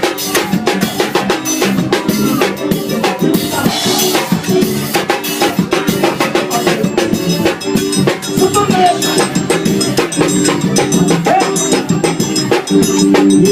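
Forró music with a drum kit playing a busy, driving beat over steady pitched instruments; no singing.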